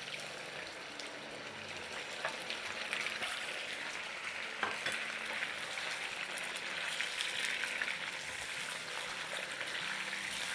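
Raw bone-in chicken pieces sizzling in hot oil in a wok, a steady frying hiss that builds slightly, with a few light clicks as they are stirred with a silicone slotted spoon.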